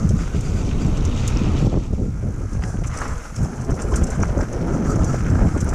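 Wind buffeting an action camera's microphone, with low rumbling and scattered knocks from a mountain bike rolling over a rough dirt trail.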